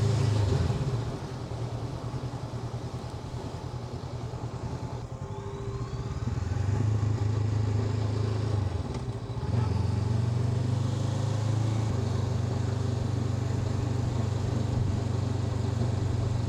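Honda NX500's parallel-twin engine running on the road. The throttle is rolled off about a second in and the engine runs quieter for several seconds, then picks up again around six seconds. After a brief dip near nine seconds it holds a steady cruise.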